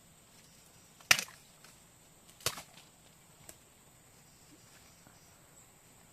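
Two sharp strikes about a second and a half apart, then a fainter knock.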